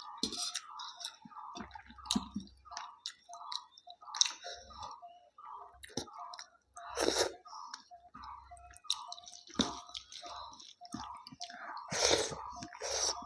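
Close-up chewing of rice, chicken and salad, wet mouth sounds at a steady rhythm of about two chews a second, with a few louder crunchy bites.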